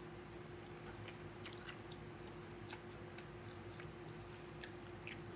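Faint chewing of takeout chow mein and Chinese food, with scattered small mouth clicks and smacks.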